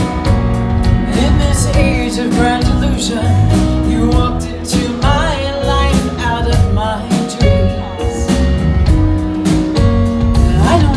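Live rock band playing a song, with drums and guitar over a steady bass.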